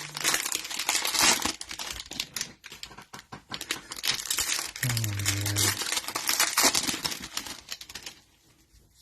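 Cellophane wrapper of a trading-card cello pack crinkling and tearing as it is ripped open and handled, with a brief voice sound about five seconds in.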